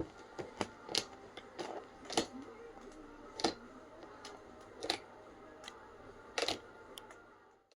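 Irregular keystrokes on a computer keyboard: a dozen or so separate clicks, a few noticeably louder than the rest.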